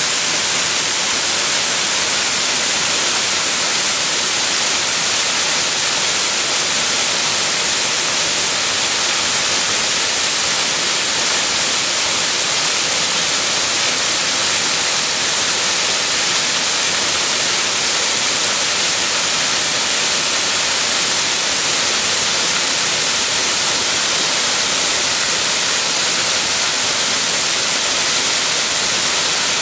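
A waterfall's water falling steadily: a constant, even rushing hiss with no let-up, strongest in its upper range.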